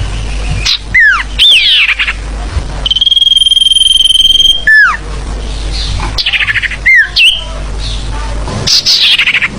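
Bird-lure recording of noisy forest birds calling over one another: fast chattering trills, sharply falling slurred whistles, and one long steady high whistle held for about a second and a half near the middle. A low hum runs under much of it.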